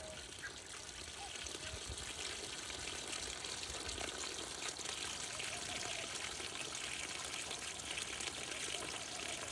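Steady running water of a stream, trickling continuously, with a brief faint call near the start.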